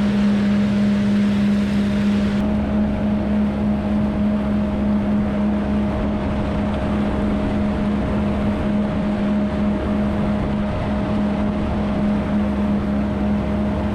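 Watercraft engine running at a steady speed while underway and towing, with wind on the microphone and water rushing past.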